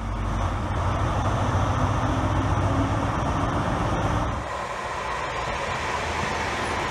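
A Class 43 HST power car's diesel engine running with a steady low hum as the train draws slowly along the platform. After a cut about four seconds in, a passenger multiple unit runs past with an even rushing wheel-and-rail noise.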